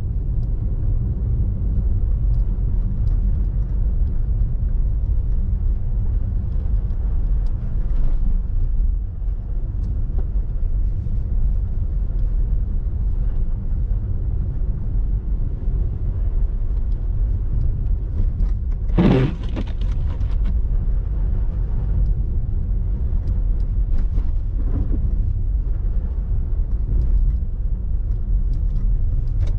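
Car road noise heard from inside the cabin while driving over packed ice and snow: a steady low rumble. A brief pitched sound lasting about a second comes near two-thirds of the way through.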